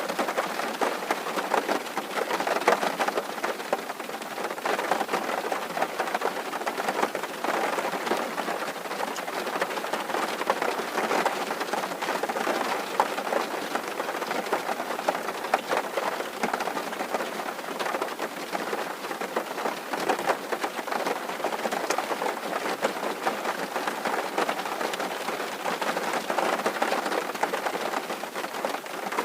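Steady rain pattering on a tin roof, a dense even drumming of many small drops.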